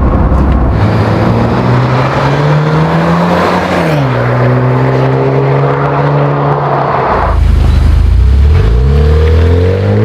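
Jeep Wrangler JL running on an aFe Power Rebel Series exhaust, revving: the exhaust note climbs in pitch, drops back and holds, sinks to a deep low rumble, then climbs again near the end.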